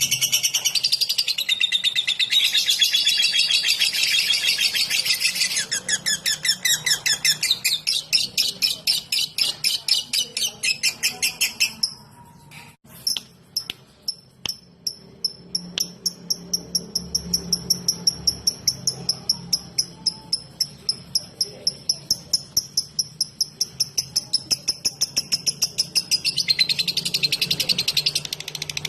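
Lovebird chattering in the fast ticking run that keepers call 'ngetik': a rapid string of sharp, high chirps. It breaks off briefly near the middle with a few clicks, resumes as a thinner, higher ticking at several chirps a second, and grows fuller again near the end.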